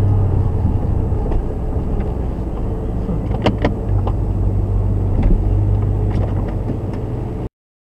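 Jeep Grand Cherokee's engine running at a steady low idle, heard from inside the cab as the vehicle creeps along, with a couple of sharp clicks about three and a half seconds in. The sound cuts off suddenly near the end.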